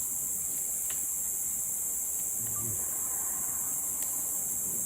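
Steady, high-pitched chorus of insects chirping without a break.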